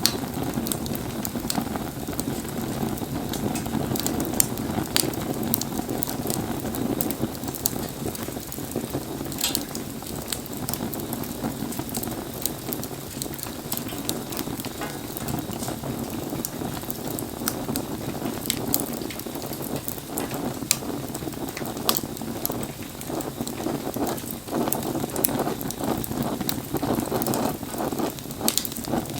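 Wood campfire crackling, with frequent sharp pops, over a steady hiss of falling rain.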